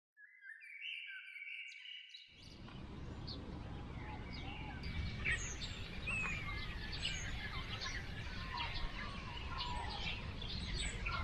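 Many birds chirping and calling, short rapid notes with a few longer gliding calls, over a steady low outdoor background noise. It begins about two seconds in, after a short series of clear held tones.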